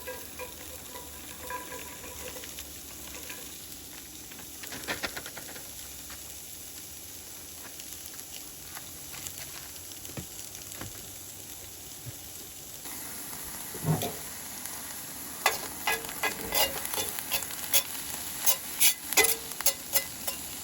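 Onions sizzling in a cast iron skillet, a steady frying hiss. It grows louder after about 13 seconds, and many sharp crackles and clicks come through over the last five seconds.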